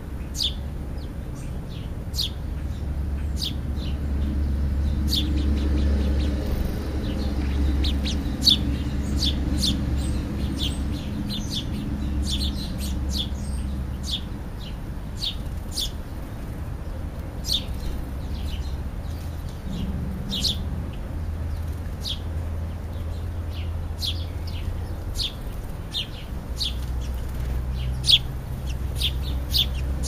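Small birds chirping, short sharp chirps several times a second in an irregular scatter, over a steady low rumble.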